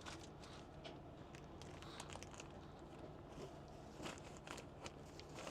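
Faint crinkling and scattered light clicks of plastic food packaging being handled, over a low steady hum.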